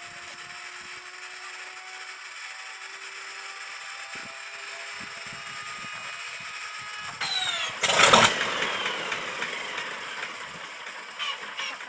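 Electric inertia starter of an An-2's ASh-62IR radial engine spinning its flywheel up with a slowly rising whine, then engaging about eight seconds in with a loud burst, after which the whine falls as the flywheel cranks the engine. A few sharp pops come near the end.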